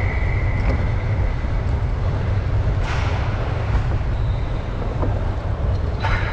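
Wind rushing over an action camera's microphone while riding a track bike, over a steady low rumble, with brief louder gusts about three seconds in and near the end.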